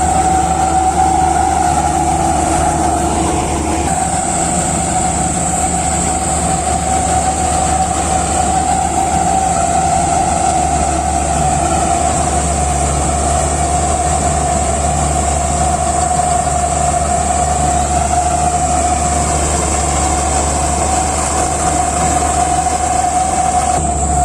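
RAM 985 combine harvester running steadily in a rice field: a loud continuous machine drone with a steady whine.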